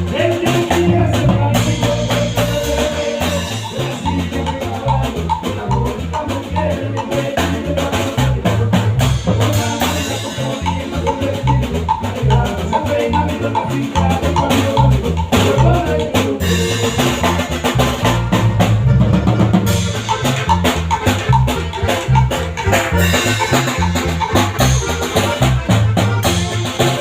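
Norteño band music playing, with a steady drum beat and a bass line.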